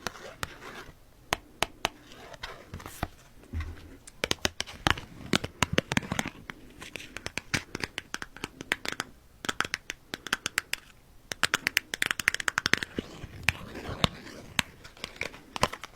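Oracle cards being handled and shuffled: a long irregular run of crisp clicks, flicks and rustles, busiest a little past the middle.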